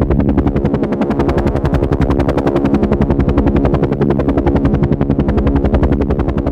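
Helicopter in flight: the rotor blades beat rapidly and evenly over a steady engine hum. The sound holds constant, with no change in pitch or speed.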